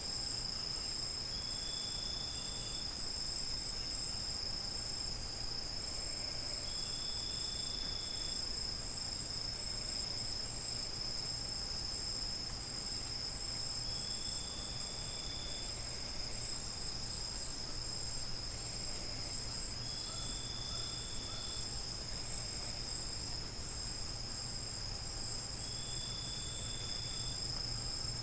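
Crickets chirping in a steady high-pitched chorus. A shorter, lower trill comes in for about a second and a half roughly every six seconds.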